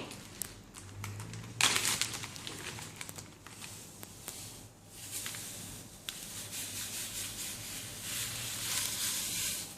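Kitchen handling noises: soft rustling and rubbing as hands are wiped dry, with a sharp knock about a second and a half in, then a longer soft hiss as sugar is added to the eggs for a sponge cake batter.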